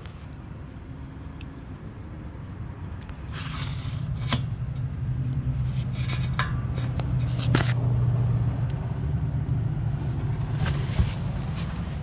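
A low steady rumble that grows louder about three seconds in, with scattered scrapes and sharp clicks.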